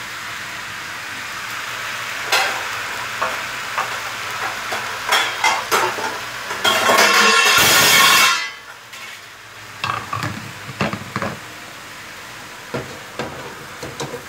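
Bottle gourd strips and anchovies sizzling in a wok, with a spatula scraping and clicking against the pan. The hiss swells into a loud burst for about a second and a half, then drops off abruptly as the wok is covered, leaving a quieter background with a few clinks of the lid and utensils.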